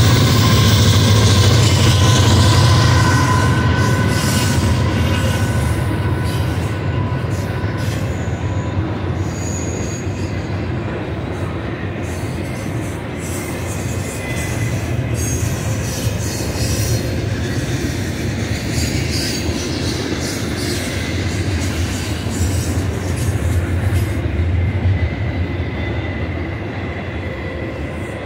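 Union Pacific diesel freight locomotives rumbling past, loudest in the first few seconds, then a long double-stack container train rolling by. Its wheels keep up a steady rumble and clatter on the rails, with some thin high wheel squeal.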